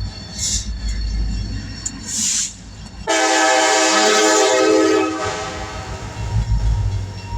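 Coal train passing: a diesel locomotive horn sounds one long chord blast about three seconds in, lasting about two seconds, over the steady low rumble of the train.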